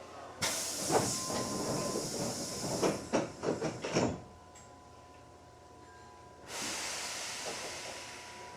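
Compressed-air hiss from a Hankyu 7300-series train standing at a station stop: a sudden hiss with several clunks through it, cut off abruptly about four seconds in, then a second, gradually fading hiss. This is the pneumatic equipment of the stopped train, its doors and brakes being worked by air.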